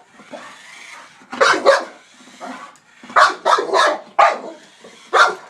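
Blue-nose pit bull barking in quick clusters of two or three sharp barks, about eight in all, agitated over a truck.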